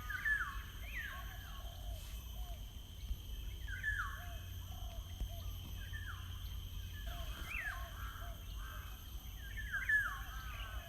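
Several birds calling, short harsh calls that slide up and down, overlapping and repeated every second or so, over a steady low rumble.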